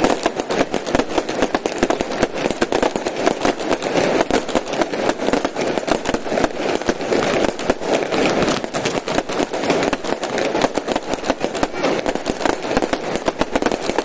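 Fireworks going off in a continuous rapid barrage: many sharp bangs and crackles a second, overlapping without a break.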